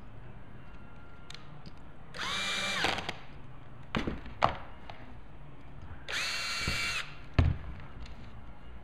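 Drill with a Phillips driver bit running in two short bursts of about a second each, rising in pitch as it spins up and then holding steady, driving in the screws that remount the stubbie's base pipe. Sharp knocks fall between and after the bursts, the loudest just after the second.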